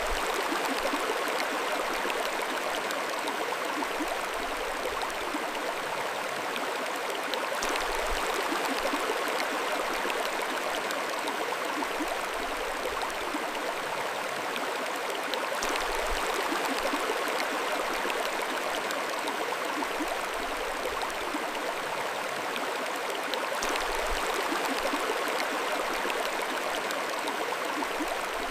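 Mountain stream flowing steadily over rocks, a continuous rushing and babbling of water.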